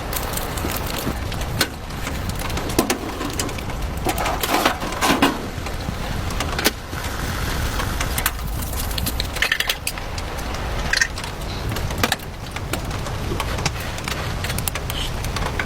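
Steady rain with a low rumble underneath, broken by many scattered sharp clicks and knocks and a few brief rustles.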